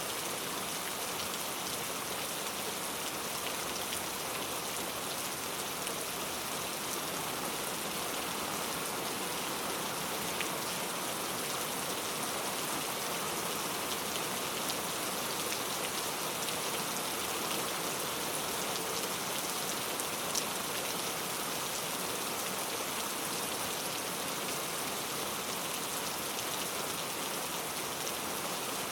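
Steady rainfall: a continuous even hiss of rain with occasional single drops ticking on a surface.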